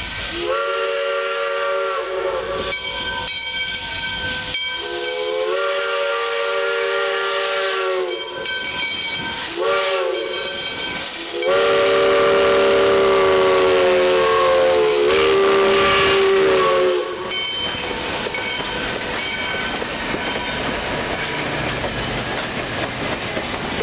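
Steam chime whistle of Little River Railroad 4-6-2 No. 110 blowing the grade-crossing signal: two long blasts, a short one, then a final long blast that is the loudest. The chord slides up in pitch at the start of each blast. After that comes a steady hiss and the rumble of the passing train.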